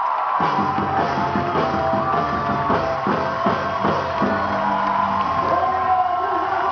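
Live band music with drum kit and guitar: a run of heavy drum strikes for the first few seconds over held notes, then the held notes continue.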